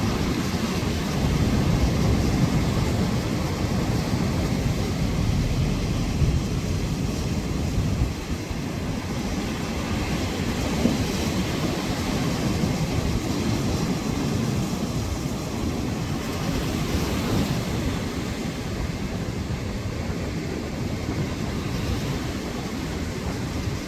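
Storm wind and surf on a seashore: a steady, deep rumbling rush that swells and eases, with wind buffeting the microphone.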